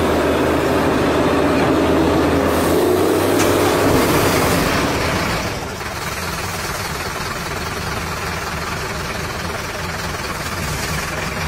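Truck engine sound running steadily. It drops to a quieter, rougher run about six seconds in.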